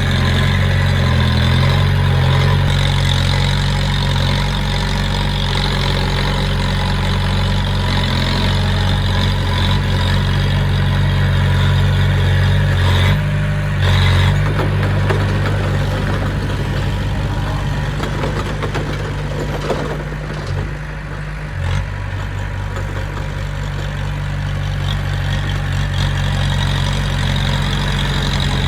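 Diesel engine of heavy construction machinery running steadily at a low, even pitch, with a brief louder moment about thirteen seconds in.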